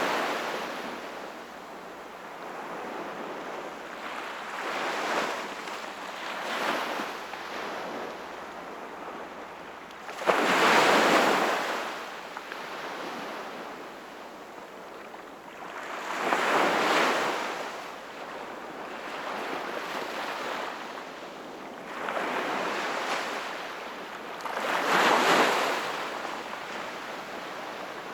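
Sea waves breaking and washing in, rising and falling in swells every few seconds; the loudest wave comes about ten seconds in.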